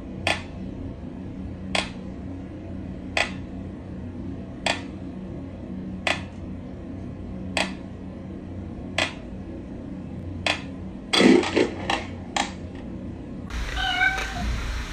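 A cat giving short, sharp cries at an even pace, about one every second and a half, over a steady low hum. Near the end a louder, different sound starts.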